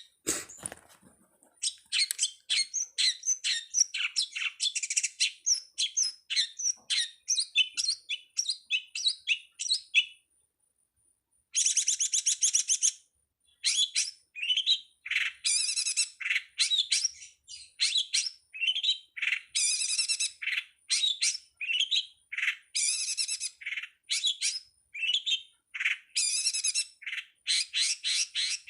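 Long-tailed shrike singing a rapid, varied string of short high chirps, broken about five times by harsh, scratchy chattering phrases about a second long.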